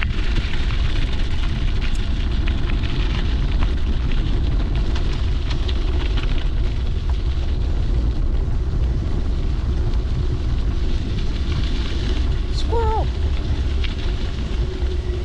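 Wind buffeting a helmet or bike-mounted action camera's microphone during a mountain bike ride, a steady low rumble with tyre noise and small clicks and rattles from the bike on the trail. A short squeak near the end.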